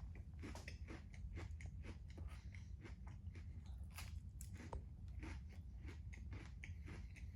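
Close-up chewing of a Nature Valley peanut butter chocolate crunchy dipper granola bar: irregular crisp crunches, about two or three a second, over a steady low hum.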